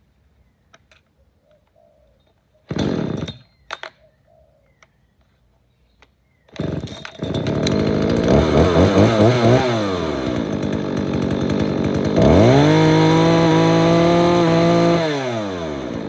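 Small two-stroke engine of a handheld yard tool being cold-started: a short burst about three seconds in, then it catches about six and a half seconds in and revs up and down unevenly. From about twelve seconds it is held at high revs, then the revs fall and it shuts off at the end.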